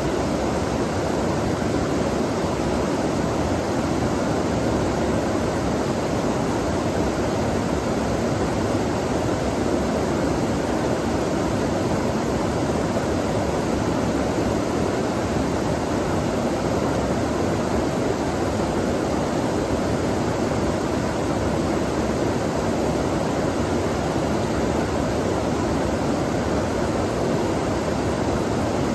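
Flowing water rushing steadily, a dense even noise that does not change.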